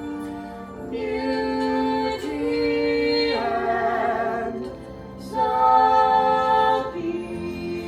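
Music with a woman singing long held notes over an accompaniment, one note wavering with vibrato midway.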